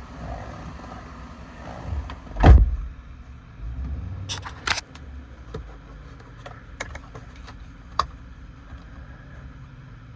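A single loud thump about two and a half seconds in, then a few short sharp clicks, over a low steady rumble.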